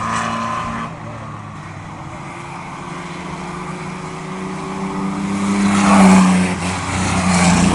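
Field of oval-track race trucks running at racing speed. The engines fade about a second in, then build as the pack approaches, loudest about six seconds in as they pass, and stay loud near the end.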